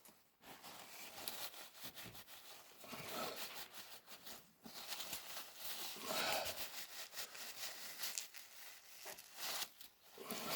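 Soft rubbing and rustling in uneven swells: hands and a cloth working on a small plastic toy part.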